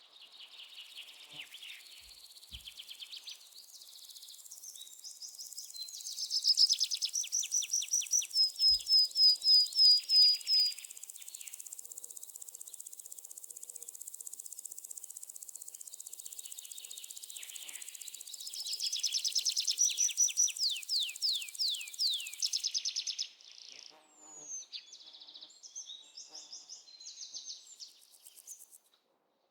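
Parrots chirping and chattering in rapid high-pitched trills, with a loud run of repeated sharp notes and later a series of quick falling chirps. A steady high hiss lies behind them and cuts off suddenly about 23 seconds in, after which the chirps are fainter and scattered.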